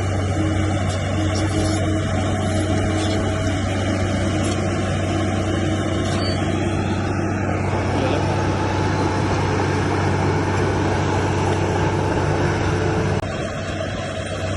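Diesel engine of heavy earthmoving machinery running steadily under load, with its level dropping slightly about thirteen seconds in.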